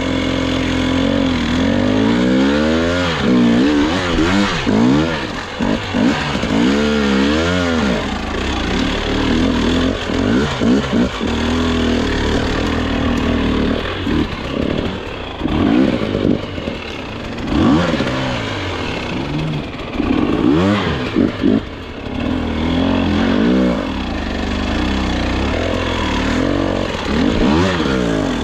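Dirt bike engine revving up and down over and over, its pitch rising and falling in short bursts as the throttle is worked through technical trail.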